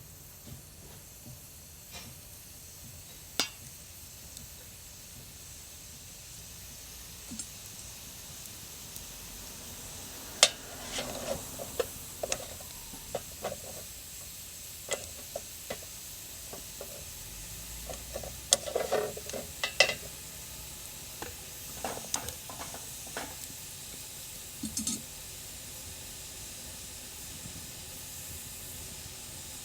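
Wood fire crackling, with scattered sharp pops, most of them in the middle of the stretch, over a steady faint hiss.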